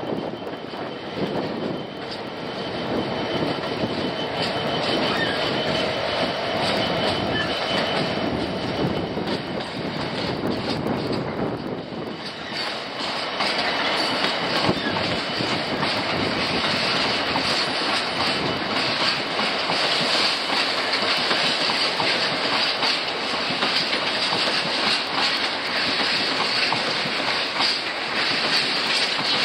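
Class 66 diesel-electric locomotive with its EMD two-stroke engine running as it hauls a train of stone hopper wagons past. About halfway through, the noise of the wagons' wheels on the rails grows louder and takes over.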